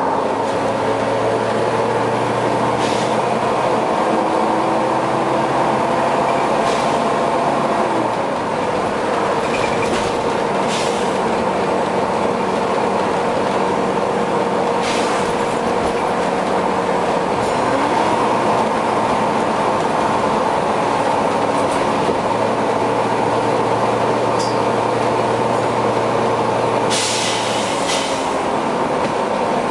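Volvo B9TL bus running with a very loud cooling fan, a steady droning whine whose pitch shifts a few times. Short hisses of compressed air break in several times, the longest near the end.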